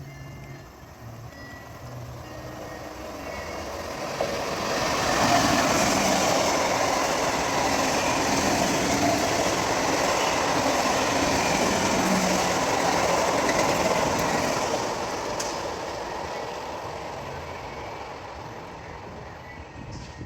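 A train passing on the track: the rumble and rush of wheels on rail build up over the first few seconds, stay loud from about five to fifteen seconds in, then fade away.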